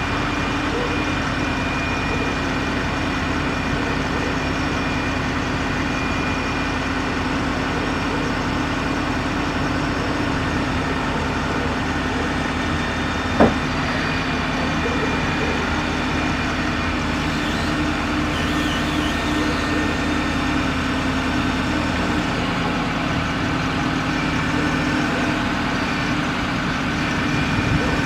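Ford F550's 6.4-litre Power Stroke V8 diesel running steadily, with one sharp click about halfway through.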